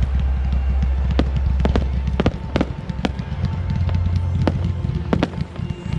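Fireworks going off in a rapid, irregular run of sharp bangs, several a second, with music playing underneath.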